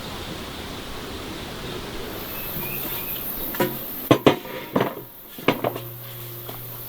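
A steady background hiss, then a quick run of about six sharp knocks and clatters in the second half, like hard objects or dishes being set down or struck.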